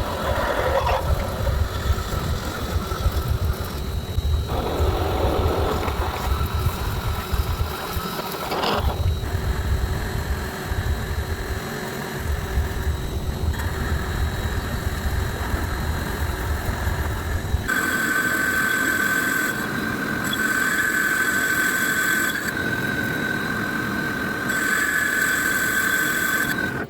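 A power tool working metal. A low rumble dominates until about two-thirds of the way in, then a steady high-pitched squeal takes over and is broken off briefly several times.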